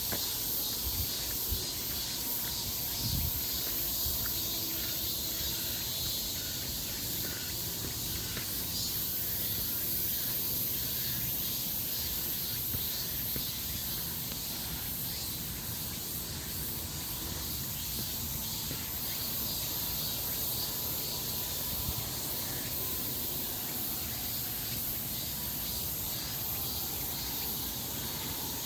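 Steady, high-pitched chorus of insects shrilling without a break, with a low uneven rumble of wind or handling noise beneath it.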